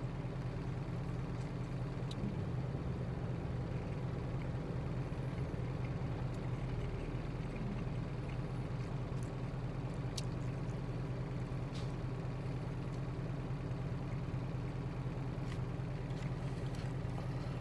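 Truck engine idling steadily, heard from inside the cab as a constant low hum, with a few faint light clicks.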